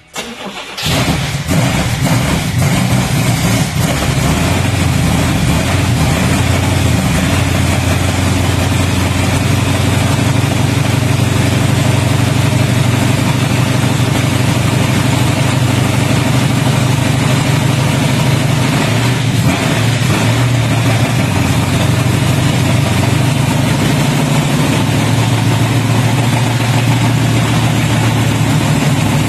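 Freshly built carbureted V8 with a big cam firing for the first time: it cranks briefly, catches about a second in, then runs steadily and loudly.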